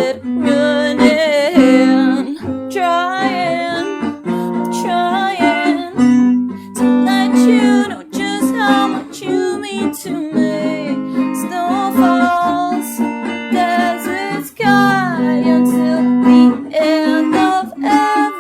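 Singing with a strummed acoustic stringed instrument accompanying it: a song performed in a small room.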